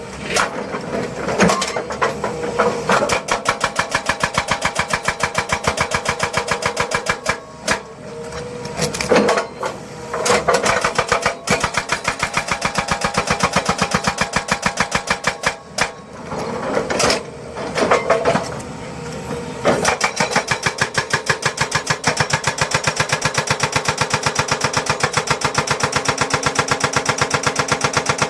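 Heavy construction machinery running with a rapid, even pounding of several strokes a second, with a few brief swells in the first two thirds, then settling into a steady beat.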